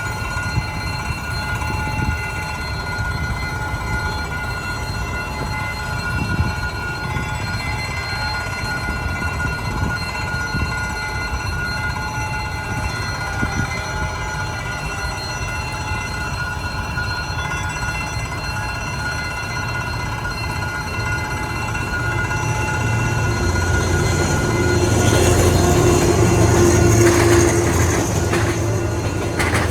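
A train on the Vietnamese national railway approaching a level crossing and passing it. For most of the time there is a steady low rumble with several held whining tones. From about 23 seconds in it grows louder with wheel and rail noise, loudest near the end.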